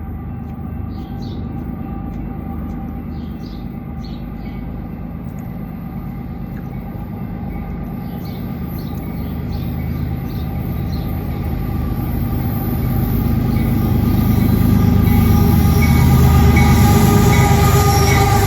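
Diesel train approaching, its engine and wheels rumbling steadily and growing louder through the second half.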